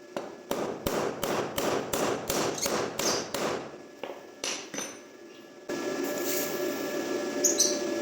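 A quick run of a dozen or so hammer blows, about three a second, on a part being repaired. The blows stop after about five seconds and a steady hum with a thin whine in it takes over.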